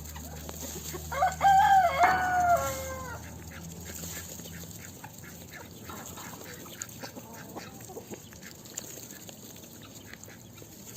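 A rooster crows once, a loud call of about two seconds that drops in pitch at the end, followed by fainter short bird calls and scattered clicks.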